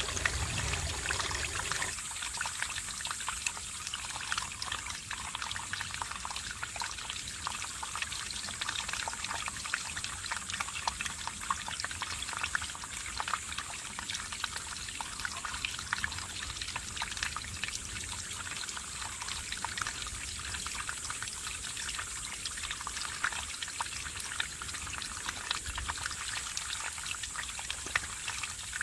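Mountain stream babbling over rocks: a steady rush of running water full of small splashes and trickles.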